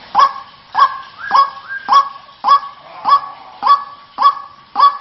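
White-breasted waterhen (ruak-ruak, kareo) giving its loud, repeated call: a series of about nine short, honking notes, each sharply rising, coming evenly at about two a second.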